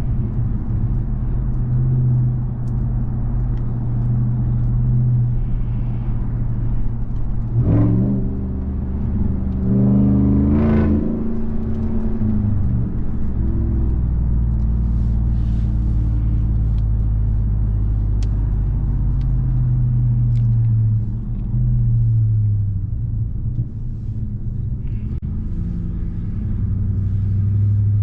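2021 Ram 1500 TRX's supercharged 6.2-litre V8 running while driving. It revs up sharply about eight seconds in and again a couple of seconds later, settles back to a steady pull, then climbs again near the end.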